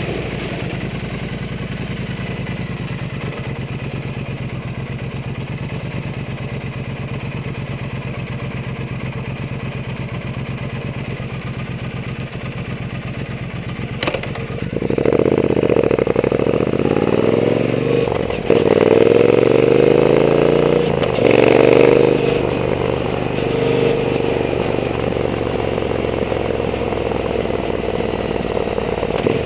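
Triumph Bonneville T120's 1200 cc parallel twin through an aftermarket Zard exhaust, running steadily at low revs. About halfway through it gets louder and the revs climb in several rising sweeps with breaks between them, as through gear changes, then it settles to a steady note.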